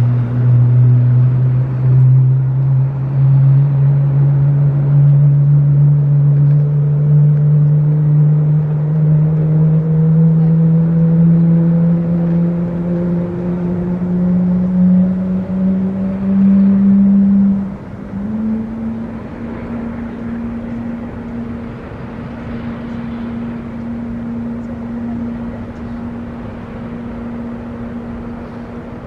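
Engine noise from a Boeing 777-300ER's pushback and engine start. A low hum rises slowly and steadily in pitch for about seventeen seconds, then drops suddenly in loudness and settles to a steady tone.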